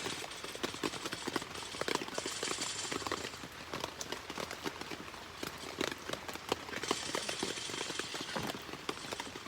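Rain pattering on a camp tarp: a dense, irregular tapping, with two spells of louder hiss, about two seconds in and again about seven seconds in.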